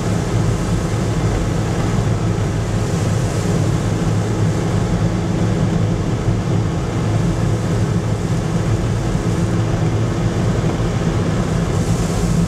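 Steady drone of a car's engine and road noise heard from inside the cabin, driving at about 50 km/h.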